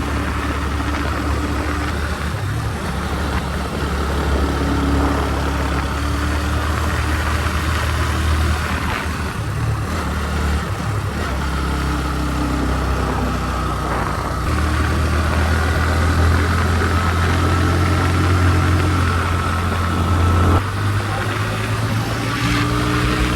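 Motorcycle engine running steadily under a rush of wind and road noise; near the end the engine note drops abruptly and then climbs again.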